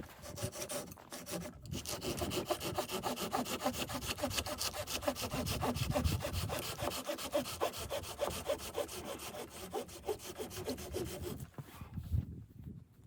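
A saw cutting through wood with steady, continuous strokes, pausing briefly near the start and stopping about a second and a half before the end.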